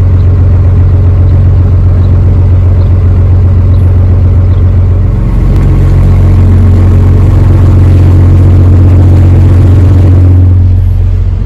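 Barge diesel engine running steadily under way, a loud low hum that shifts slightly about halfway through and eases off near the end.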